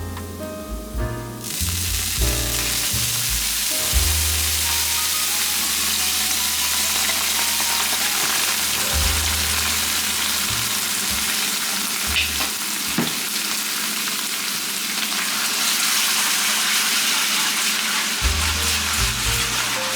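Food frying in a hot pan, a steady sizzle throughout with a sharp click a little after twelve seconds. Soft background music with changing bass notes plays underneath.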